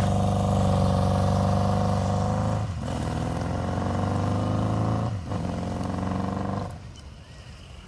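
1981 Honda CB750K's air-cooled inline-four engine pulling under throttle, its pitch climbing steadily with two brief breaks for gear changes. The engine sound drops off sharply about six and a half seconds in.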